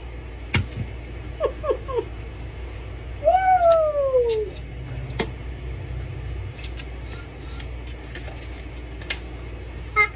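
A cat meowing: three short quick mews, then one long meow that falls in pitch. A few sharp clicks are heard as well.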